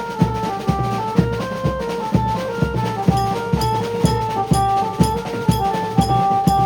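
Maharashtrian banjo band playing: a loud, amplified banjo melody of held notes stepping up and down over drums and cymbals that keep a steady beat of about two strokes a second.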